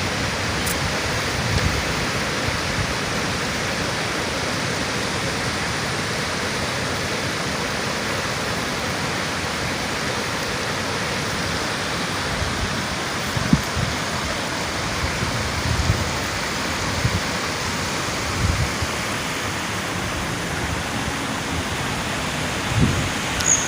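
Steady rushing noise of water, even and unbroken, with a few soft low thumps in the second half.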